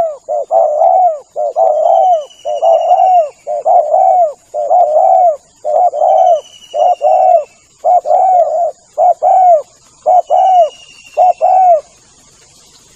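Spotted dove (tekukur) cooing in a steady run of short, repeated coo notes, played as a hunting lure call, stopping near the end. A faint, high, falling whistle from another bird comes three times.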